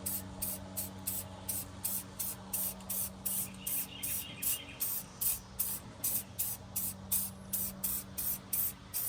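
Aerosol spray-paint can being shaken, its mixing ball rattling in a steady rhythm of about two and a half rattles a second, over a steady low hum.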